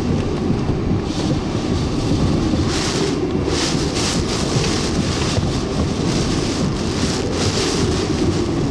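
Hurricane-force wind and heavy rain beating on a vehicle driving through floodwater: a steady low rumble, with surges of hissing wind and spray twice.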